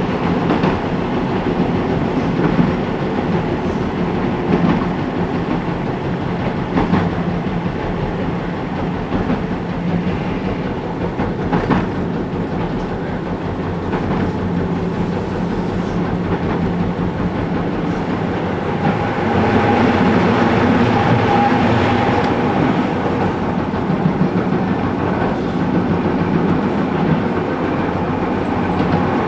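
Keihan 800 series electric train running between stations, heard from inside the car: a steady rumble of wheels on rail with scattered clicks over the track. About two-thirds of the way through it briefly grows louder with a high steady tone.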